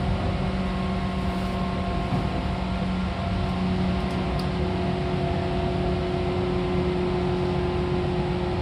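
Seibu 4000 series electric train running, heard from inside the car: a steady rumble of wheels on rail with a steady hum from the running gear.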